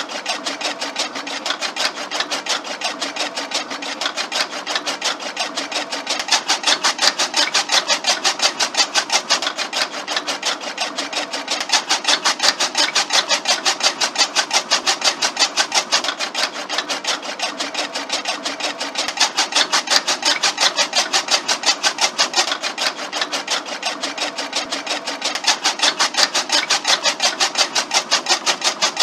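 Small DC motor on a toy tractor driving a miniature chaff cutter through belts and pulleys, running with a rapid, even clatter as the spinning blade chops grass stalks.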